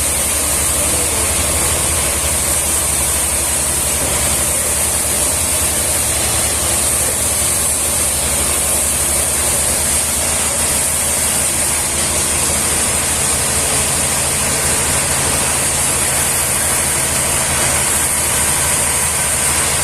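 An engine-driven machine running steadily at constant speed: a low even hum under a strong, unchanging hiss, with no change in load.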